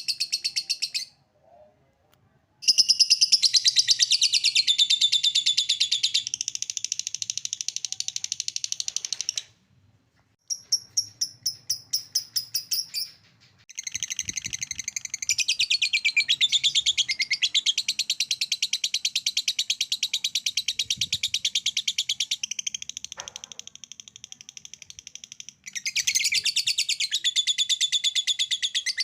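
Lovebird singing its long 'ngekek' chatter: extended bouts of rapid, high-pitched chattering trill. The song breaks off briefly about a second in and again about ten seconds in. After the second break comes a short run of separate chirps at about four a second before the fast chatter resumes.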